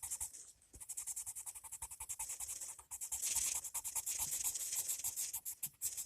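Colored pencil shading rapidly on paper, a quick run of back-and-forth scratching strokes, with a brief pause just after the start and a denser, louder stretch of strokes about halfway through.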